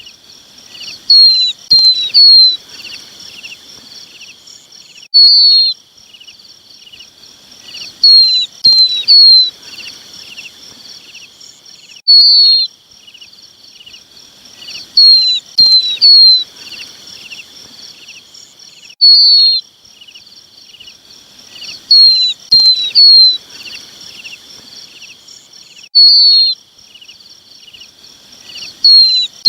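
Lapwing chick calls: short, high, falling notes, a single call and then a quick run of three, repeating evenly about every three seconds like a loop. A steady high-pitched buzz runs underneath.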